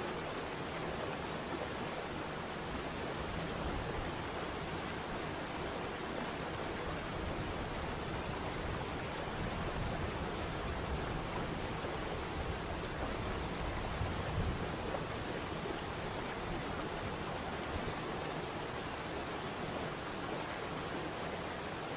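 Waterfall: a steady rush of falling water with no break, swelling slightly in the low end about fourteen seconds in.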